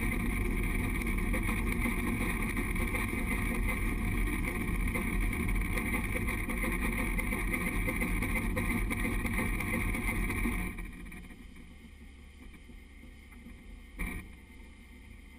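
Steady rumble and rush of the Durango & Silverton train running along the track, picked up by a camera on the front of the locomotive with wind on the microphone. About eleven seconds in it drops away abruptly to a faint low hum, with a single click near the end.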